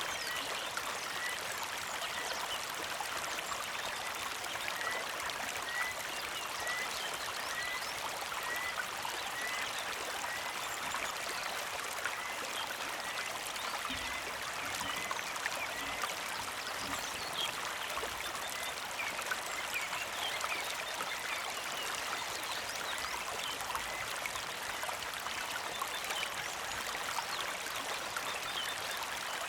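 Creek water flowing and trickling steadily. Over it, a bird repeats a short high chirp about once a second through the first half, with other brief chirps scattered throughout.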